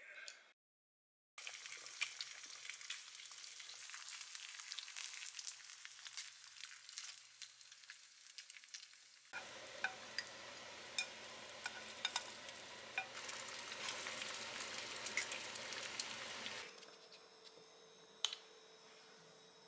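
Food frying in a pan, sizzling with a dense crackle of spitting fat, starting about a second and a half in; in the louder later part it is slices of Spam frying. The frying stops shortly before the end, leaving quiet room tone with one sharp click.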